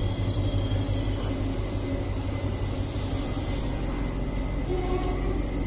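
Steady low hum and rumble of a passenger train at a station platform, with a high wheel squeal dying away in the first half-second.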